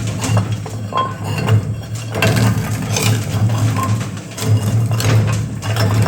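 Industrial shredder running with a steady low motor hum while its cutters crunch and crack material, with irregular clatters and metallic clinks.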